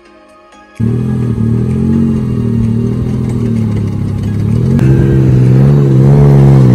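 Faint music, then about a second in a small 4x4's engine cuts in loud, revving hard and held under heavy load, its pitch wavering as it strains to tow a second 4x4 out of soft sand by a strap. It gets louder and the pitch rises and dips toward the end.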